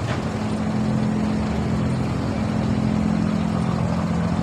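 Engine of an abra, a wooden Dubai Creek water taxi, running steadily with a low hum. It gets a little louder about a second in.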